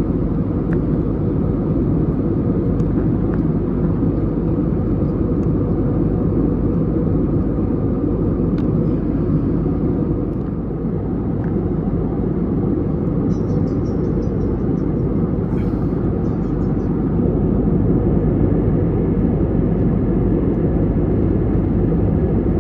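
Steady roar inside an Airbus A320neo cabin in climb: jet engines and airflow heard from a window seat, heaviest in the low range.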